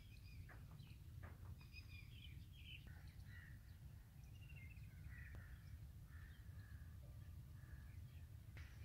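Faint bird calls and chirps, scattered and short, over a low steady rumble, with a few soft ticks in the first couple of seconds.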